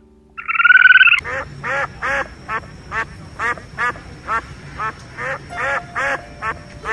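Animal calls: one loud, harsh, nasal call about half a second in, then a steady run of short repeated calls, each dropping in pitch, about two or three a second.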